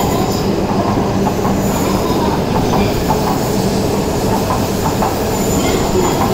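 E5 series Shinkansen train running past along the platform: a steady rumble of wheels on rail with a constant low hum.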